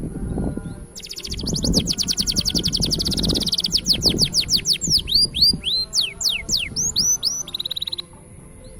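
Green canary singing: a rapid trill begins about a second in, then a run of quick downward-sweeping whistled notes, ending in a short buzzy trill that stops abruptly near the end.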